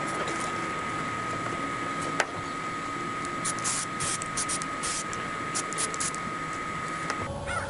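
Adhesive being sprayed under the edge of a vinyl car roof: a steady hiss with a thin high tone, broken by a run of short sharp spray hisses in the middle, the steady sound cutting off near the end.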